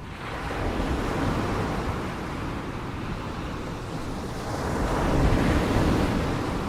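Ocean waves washing in. One swell builds about a second in, and a louder one peaks around five seconds in.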